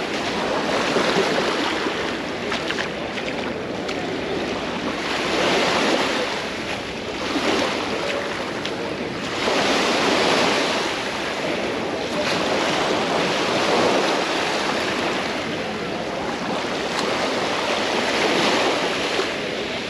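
Mediterranean surf: small waves breaking and washing up the beach, the hiss swelling and fading about every four to five seconds.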